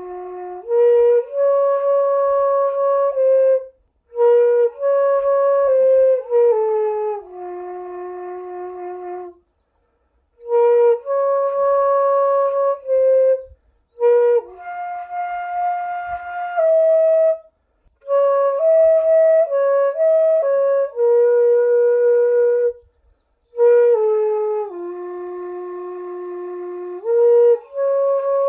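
Sanjo daegeum, the Korean bamboo transverse flute, playing a slow melody alone: long held notes joined by short slides, in phrases broken by brief pauses.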